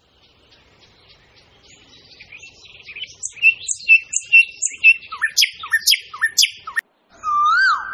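Birdsong: many small birds chirping, fading in and growing louder, then a run of loud, repeated whistled notes that each sweep downward. Near the end comes one longer whistled note that wavers up and down.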